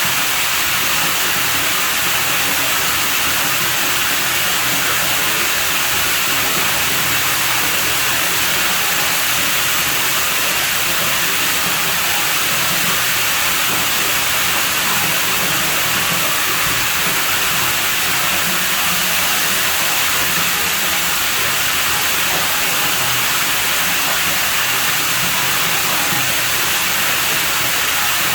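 Water running steadily at a pool villa's pool: an even, unbroken rush of noise with no changes.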